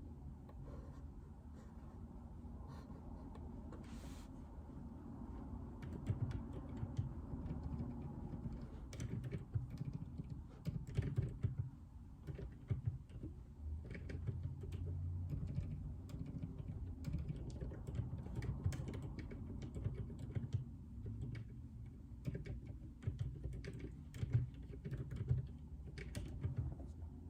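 Typing on a JJK84 mechanical keyboard with Outemu Silent Peach linear switches. The keystrokes come in irregular runs, sparse for the first few seconds, then denser.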